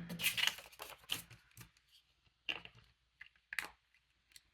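Paper being handled on a craft table: a quick flurry of rustling, then several separate short crinkles and taps.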